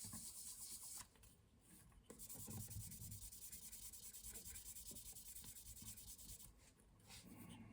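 Faint rubbing of fine-grit abrasive going over a wooden pipe bowl to polish it to a shine, with two short pauses.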